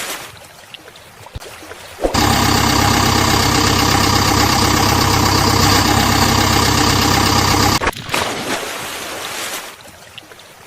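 A steady engine sound with an even, low pitch that cuts in suddenly about two seconds in and stops abruptly about six seconds later; around it, only quieter noise.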